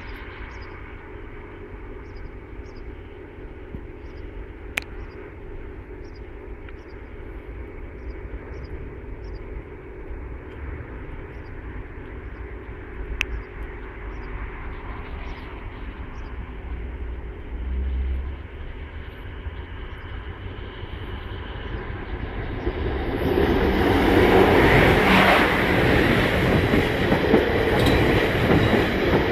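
A South West Trains Class 444 electric train approaches and runs over the level crossing. Its rumble and wheel noise build quickly to loud about 23 seconds in and stay loud to the end. Before it arrives there is only a steady, quieter background noise, broken by two sharp clicks.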